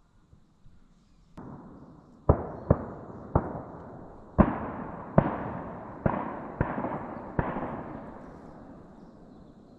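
Shotgun volley from several duck hunters firing together: a fainter shot, then about eight loud blasts in quick succession over some five seconds, each trailing off in an echo.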